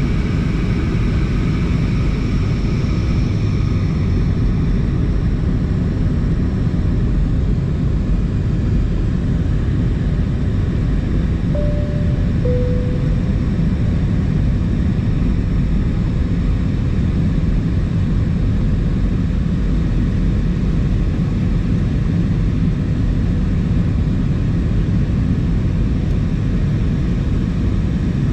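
Steady cabin roar inside an Airbus A320 in flight, engine and airflow noise heavy in the low end. About twelve seconds in, a two-tone cabin chime sounds, a higher note followed by a lower one.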